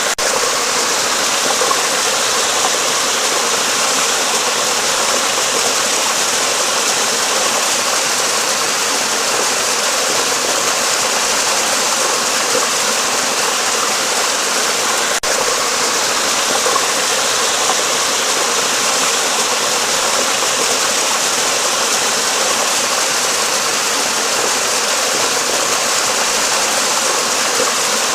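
Steady rushing of flowing water, an even, unbroken noise with no changes.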